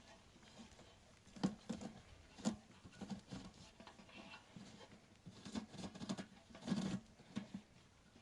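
Irregular soft knocks and taps with light rustling between them. The loudest are about a second and a half in, at two and a half seconds, and a cluster around seven seconds.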